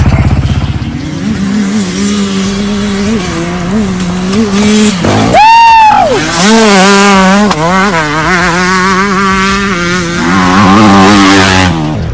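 Off-road vehicle engine revving, its pitch rising and dropping, with one loud, high-pitched sweep about five seconds in that climbs and falls back. The sound cuts off suddenly near the end.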